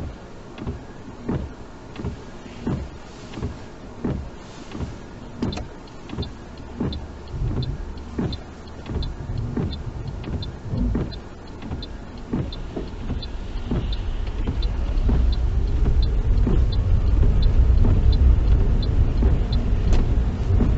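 A car's windscreen wipers sweeping in the rain with a regular thump about one and a half times a second, over a light quick ticking. From about thirteen seconds in, engine and tyre noise on the wet road builds as the car gathers speed.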